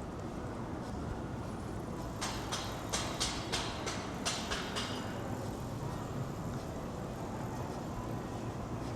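Steady low city rumble of a busy street. About two seconds in, a quick run of about nine sharp clacks lasts some three seconds.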